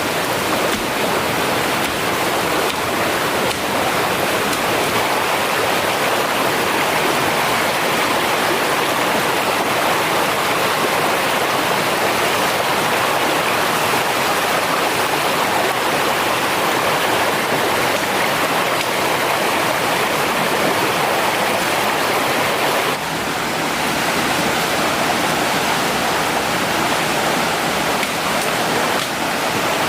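Mountain stream water rushing steadily over rocks, a dense, even rush of flowing water.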